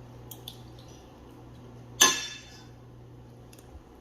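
A sharp clink of an eating utensil striking a dish about halfway through, ringing briefly, with a few faint ticks before and after.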